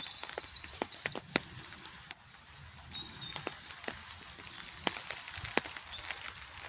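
Rain falling outdoors, with irregular sharp taps of drops striking close by over a steady hiss. Short high bird chirps come near the start and again about three seconds in.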